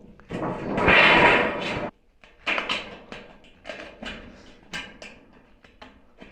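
Work-handling noise: a loud scraping rush lasting about a second and a half, cut off sharply, then a string of light knocks and clicks.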